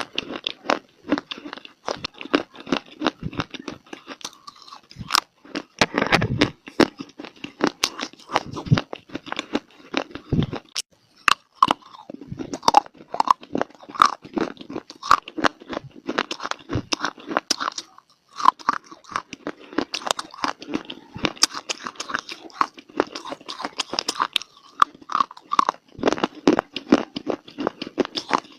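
Close-miked biting and chewing of dry clay: rapid crisp crunches, one after another, with a brief pause about two-thirds of the way through.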